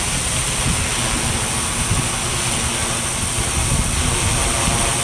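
Wind buffeting the microphone over the steady hum and high whine of a SkyHero 1000 X4 quadcopter in flight, its four Avroto 3520 brushless motors turning 17-inch wooden props.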